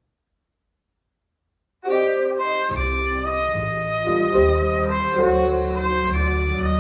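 Silence, then about two seconds in an instrumental jazz track starts abruptly: sustained saxophone and brass notes over a bass line, with light cymbal strokes.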